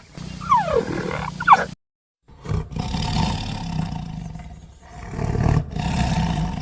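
Big cat roaring and growling, in two separate clips with a brief silent gap about two seconds in. The first part has falling calls, and the second is a long, rough growl.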